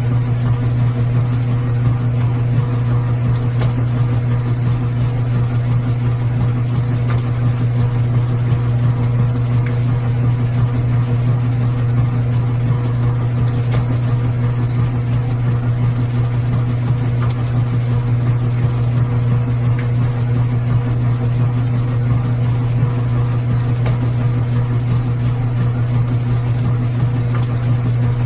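Washing machine running with a loud, steady low hum, with a few faint ticks here and there.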